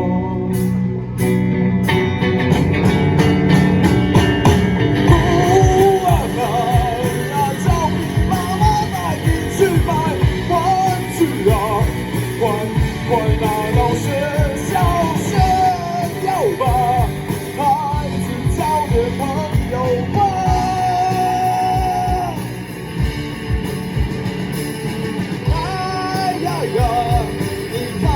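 Rock band playing live: drums, bass and guitars, with a wavering lead melody line carried above them.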